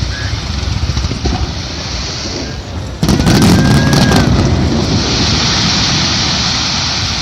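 Aerial firework shell bursting with a loud boom about three seconds in, a brief crackle, then a rumble that slowly dies away over a steady background hiss.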